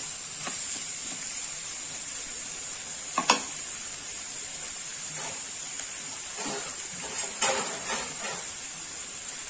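Cauliflower florets with onions and green chillies frying in a steel pan, a steady sizzle. It is broken by a few short knocks and scrapes of a steel spoon on the pan, the loudest about three seconds in.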